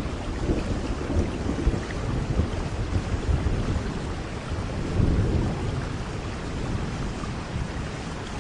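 Thunderstorm: steady rain with low rumbling thunder that swells about halfway through.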